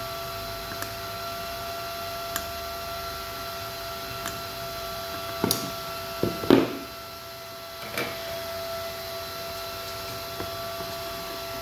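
A steady electrical hum with several fixed pitches, with scattered light clicks and a short clatter of knocks about halfway through, as of a tool or part being handled on a bench.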